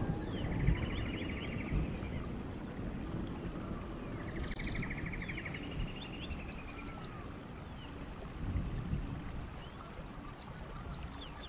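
A bird-like song repeated every few seconds, each phrase made of high, arched, falling whistles and a fast buzzy trill, over a low rushing background noise.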